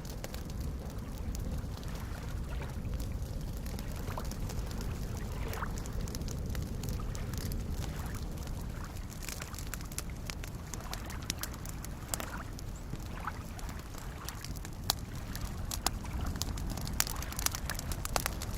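Campfire crackling and popping, with small waves lapping and sloshing against the lake shore over a steady low rumble. The pops come more often toward the end.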